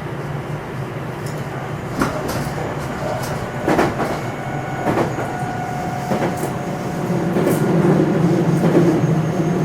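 Running noise of a JR West 227 series electric train, heard on board the motor car KuMoHa 227-7, which has Hitachi IGBT VVVF inverter control. There is a steady rumble with a few sharp clicks of the wheels over rail joints and brief faint steady tones, and it grows louder from about seven seconds in.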